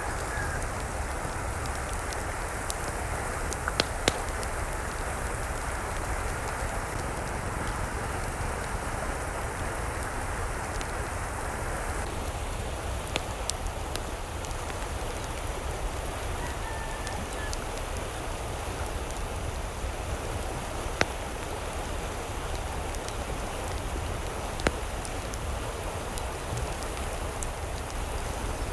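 Steady rain falling, with a few isolated sharp clicks of drops striking something hard. The tone of the rain shifts slightly about twelve seconds in.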